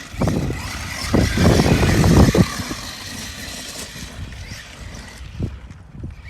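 Arma Mojave 6S RC truck's brushless motor whining under throttle while its tyres churn over dirt, loudest from about one to two and a half seconds in, then easing off.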